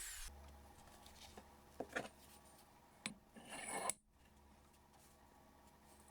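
A power tool winds down with a falling whine at the very start. Then come two light knocks of a metal part being handled, and a scraping rub lasting about a second, as in rubbing or filing metal by hand.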